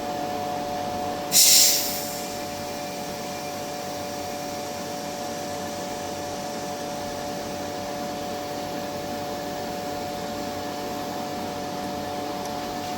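Vacuum pump running with a steady hum, broken about a second and a half in by a short, sharp hiss of air let back into the vacuum chamber to raise the pressure and simulate the rocket's descent.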